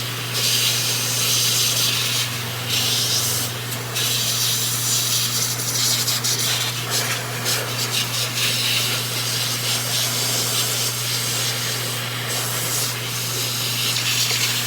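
Electric air blower running with a steady motor hum, its rushing air hiss swelling and fading several times as the stream is moved across freshly washed metal grooming tools to blow the water off them.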